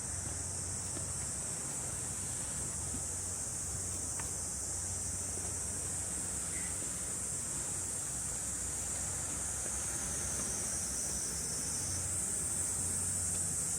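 Insects shrilling in a steady, high-pitched chorus, over a low, even rumble.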